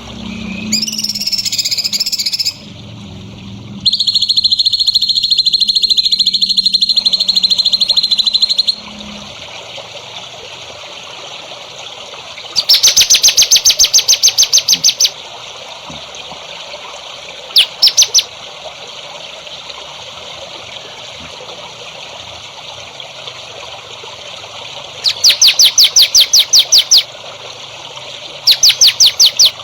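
Songbirds singing: a short chattering phrase, then a long high buzzing trill of about five seconds, then several bursts of rapid, evenly spaced high notes, over a steady background hiss.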